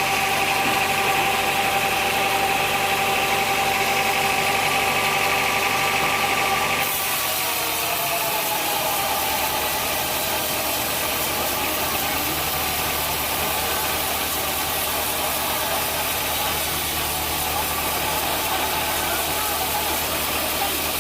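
Sawmill machinery running steadily, an engine-like hum with a high whine. About seven seconds in, the sound changes abruptly to a duller, lower hum.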